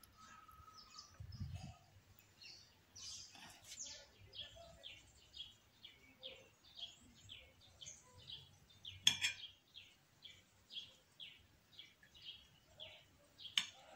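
A bird chirping a short, high call over and over, about twice a second, starting a few seconds in. Two sharp clicks cut across it, the louder one about nine seconds in.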